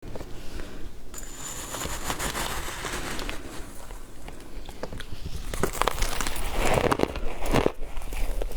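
Close-up crackling and crunching of frozen matcha ice being bitten and chewed, with sharper, louder crunches from about halfway on.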